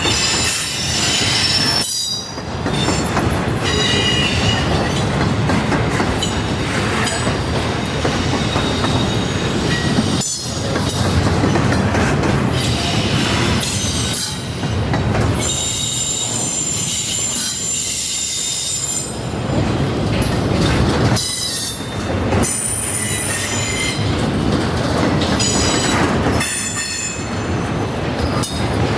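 A train's railroad cars rolling past with a steady loud rumble of wheels on rail. Wheels squeal at high pitch on and off, most plainly around the middle and near the end.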